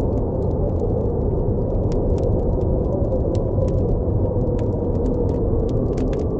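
Blizzard wind blowing steadily as a low, dense rush, with a campfire crackling in scattered small pops and snaps over it.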